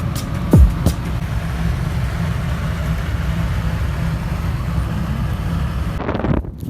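Car driving, a steady low rumble of engine and road noise, with one loud deep thud about half a second in.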